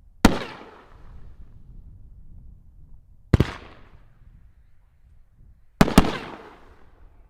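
Consumer aerial firework shells bursting: four sharp bangs, the last two coming in quick succession near the end, each with a tail that fades away over about a second.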